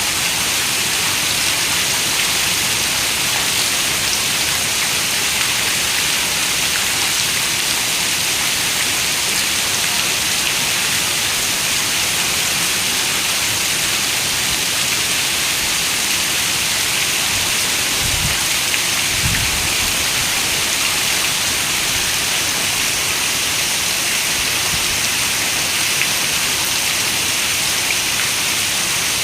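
Steady rain hissing on a window, even throughout, with two brief low thuds about two-thirds of the way through.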